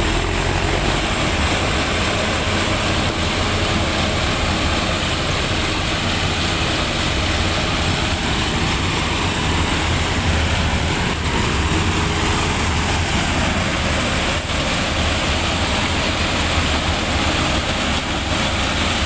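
Large diesel farm tractor engine running steadily under load, with slight slow rises and falls in pitch, while working a field.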